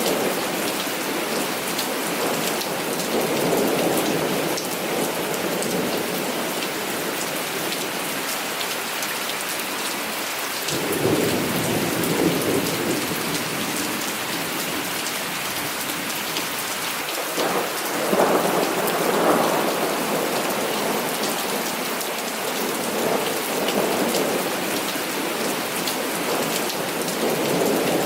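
Steady heavy rain with several long low rolls of thunder, the strongest about 11 and 18 seconds in.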